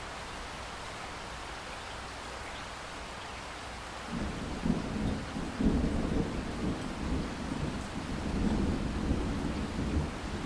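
Steady rain hiss, joined about four seconds in by a deep rolling rumble of thunder that comes in suddenly, swells unevenly and carries on.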